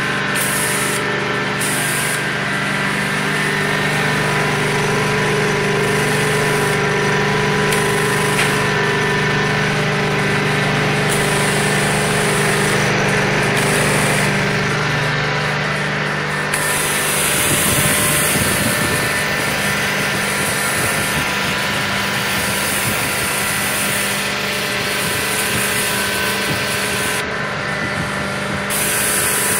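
Prochem Legend SE truck-mount carpet cleaner with its 22 hp Kohler engine running steadily. A little over halfway through, the steady engine tone breaks up and a louder hiss comes in.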